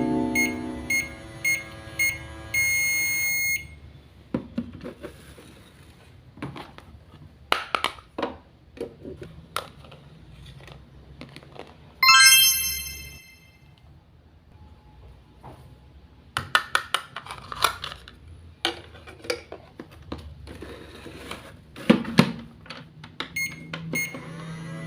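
Electronic beeps from a toy kitchen appliance: four short beeps and a longer held tone, then a ringing chime about halfway through, and a few more beeps near the end. Light plastic clicks and taps from toy pieces being handled come in between.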